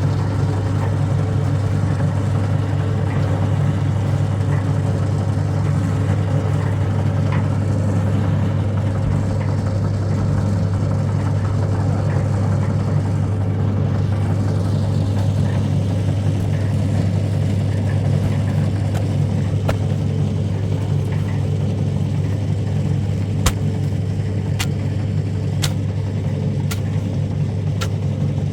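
An engine running steadily with a constant low hum, and a few sharp clicks near the end.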